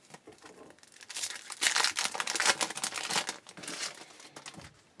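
A trading card pack wrapper being torn open and crinkled by hand: a dense crackling that starts about a second in and dies away near the end.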